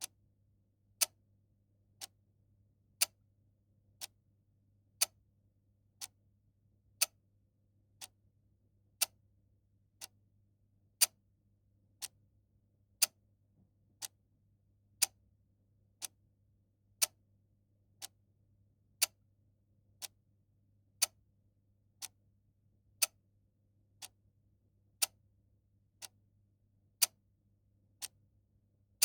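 Clock ticking steadily once a second, the ticks alternating louder and softer in a tick-tock pattern.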